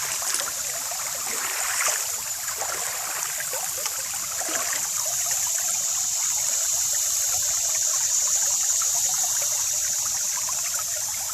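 Creek water running and trickling steadily, with a few short crackles in the first few seconds.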